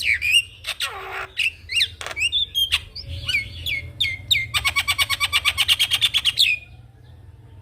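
Javan myna (jalak kebo) singing in full voice: a varied run of harsh squawks, clicks and whistled notes, then a fast rattling trill of about a dozen notes a second lasting about two seconds, after which it goes quieter.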